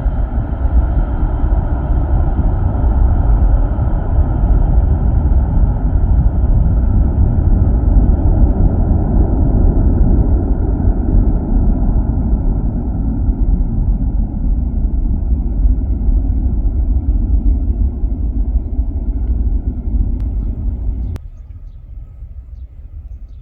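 Airliner engines running loud: a deep rumble with a steady whine on top, easing off slowly. About 21 seconds in the sound cuts off abruptly, leaving a much quieter background.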